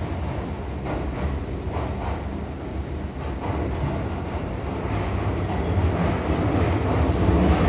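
Keihan Electric Railway Main Line train running through a tunnel, heard from inside the passenger car: a steady rumble of wheels and running gear that grows louder over the last few seconds.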